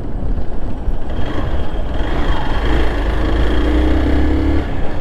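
Motorcycle engine running on the move, its pitch rising and then holding as it pulls along, over a heavy rumble of wind on the microphone.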